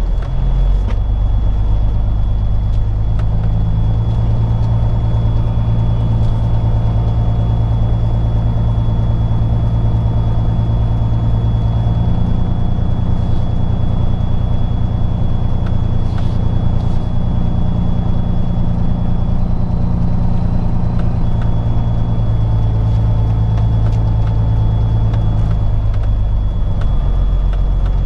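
Peterbilt 379's diesel engine running at low revs while the truck backs into a parking spot. Its pitch steps up about halfway through and settles back down near the end.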